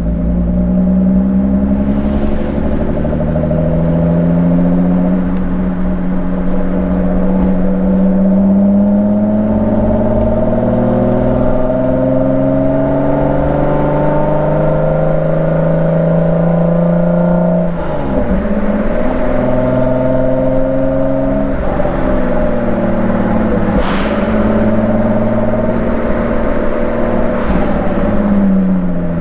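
Lotus Exige V6 engine running under way, its pitch climbing slowly and steadily for most of the first 17 seconds. It drops sharply about 18 seconds in, climbs again, dips once more a few seconds later, and falls away near the end.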